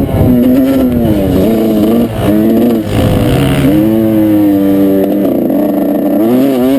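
Motocross dirt bike engine under hard riding, its revs climbing and falling again and again as the throttle is opened and chopped, with brief breaks in the sound for gear changes or throttle-off.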